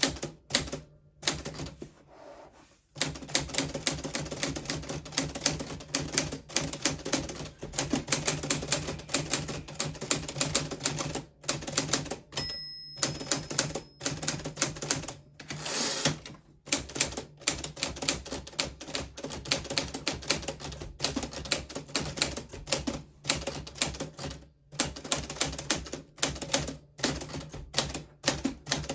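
1940s Smith Corona Silent manual typewriter being typed on: quick runs of keystrokes broken by a few short pauses.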